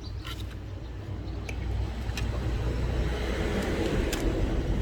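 Background traffic: a steady low rumble with a vehicle's noise swelling as it passes, and a few small clicks of handling on the bench.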